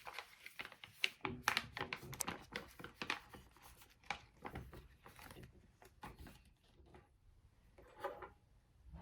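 Quiet handling noises: soft rustling and crinkling with many small clicks and taps, and a louder rustle about eight seconds in.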